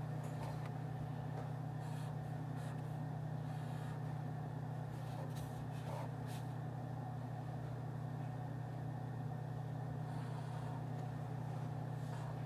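Steady low hum of office room ambience, like ventilation or air conditioning, with a few faint clicks and taps scattered through it.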